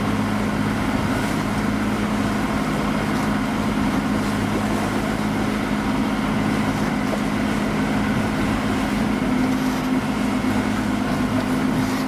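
A sailboat's inboard engine running steadily under way, a constant low drone over a wash of wind and water noise.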